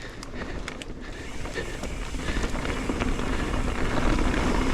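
Mountain bike rolling down a dirt trail, tyre noise and wind rushing over the microphone, growing louder as it picks up speed, with a few sharp clicks in the first second.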